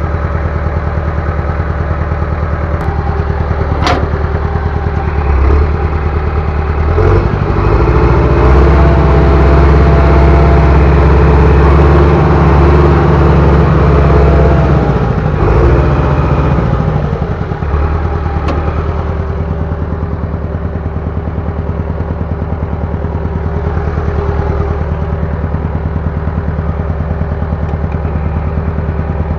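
Bulldozer's diesel engine running steadily. It works harder and louder for about ten seconds in the middle, then drops back toward idle. A single sharp click comes early on.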